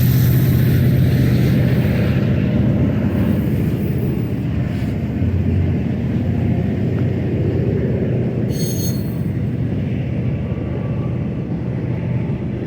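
Freight cars of a long BNSF manifest train rolling past with a steady rumble of steel wheels on rail. A brief high-pitched wheel squeal comes about eight and a half seconds in.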